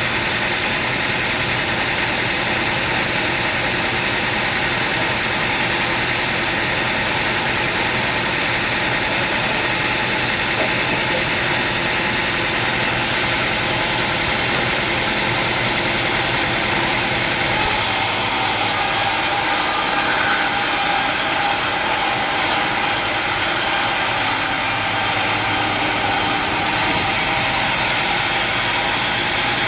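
Sawmill machinery running steadily with an engine-like drone. From about 18 s to about 27 s a high hiss is added over the drone.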